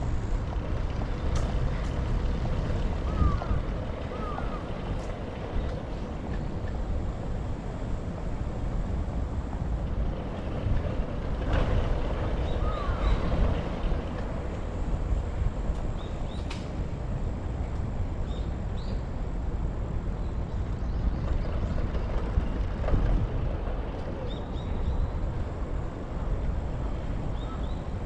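Wind buffeting a handlebar- or body-mounted action camera's microphone while cycling, over steady road and traffic noise, with a few short high squeaks now and then.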